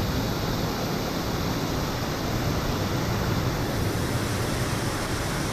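Steady rushing noise, even and unbroken, with no distinct sounds standing out.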